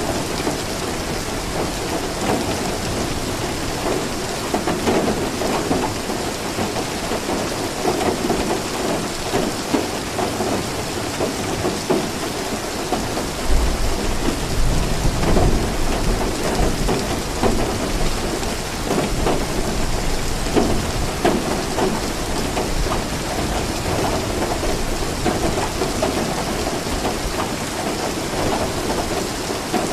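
Steady rain falling, with a low rumble of thunder that swells about halfway through and fades over a few seconds.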